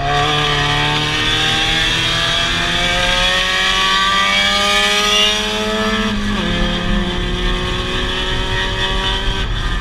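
Race Mazda Miata's four-cylinder engine, heard from inside the cabin, accelerating hard with its pitch climbing steadily, then shifting up about six seconds in and pulling again.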